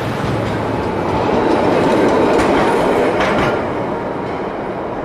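A rail vehicle passing close by, its wheels clattering over the rails, swelling to its loudest about two to three seconds in and then fading.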